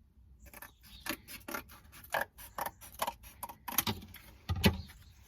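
Scissors snipping through cardboard, a run of crisp cuts about twice a second, with a heavier knock about four and a half seconds in.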